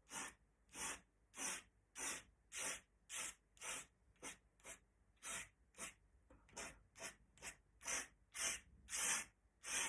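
Quick, regular strokes of an Indian-ink drawing tool scratching across paper, about one every half second, each a short dry hiss.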